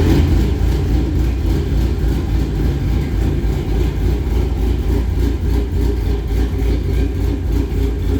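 2007 Chevy Silverado 1500 pickup being driven on the road: steady low engine and road noise after its front suspension rebuild.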